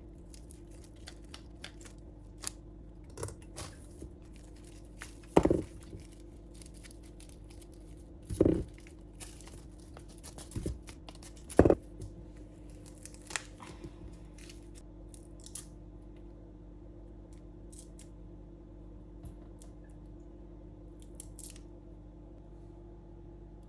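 Hands at kitchen work: scattered sharp snips, clicks and rustles, with three louder ones in the first half and fewer after about fourteen seconds, over a steady low hum.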